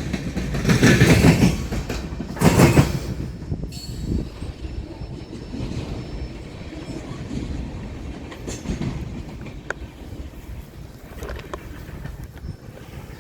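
Freight train rolling past. It is loudest in the first three seconds, then settles into a quieter steady rumble with occasional clicks.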